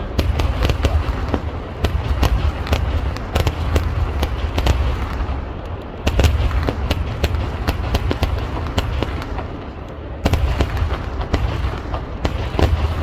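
Fireworks going off in a dense, rapid barrage of firecracker bangs over a continuous low rumble, surging again about six, ten and twelve seconds in.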